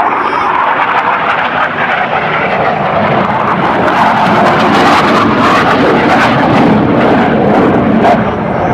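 Jet noise from US Navy Blue Angels F/A-18 Hornets, twin-engine fighters, flying through their display. It is loud and steady, with sharp crackles through the middle.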